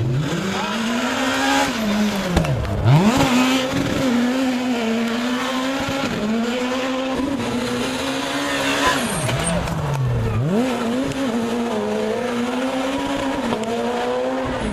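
Rally car engine running at high revs. Its pitch drops sharply twice, about two and a half seconds in and again about ten seconds in, then climbs straight back up.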